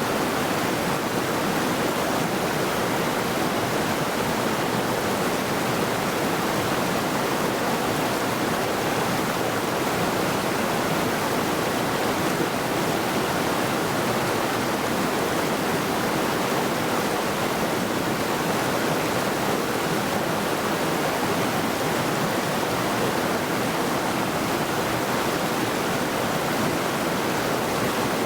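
Middle Saluda River, a mountain stream, rushing steadily over rocks: a continuous, even roar of flowing water.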